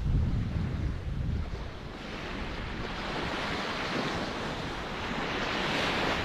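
Ocean surf: a low rumble of water in the first second or so, then the hiss of a wave washing in that builds toward the end.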